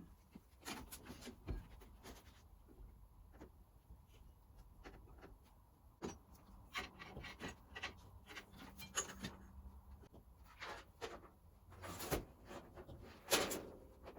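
Intermittent rubbing and light knocks of hands working a rubber window seal into place around a screen, with a couple of louder knocks near the end.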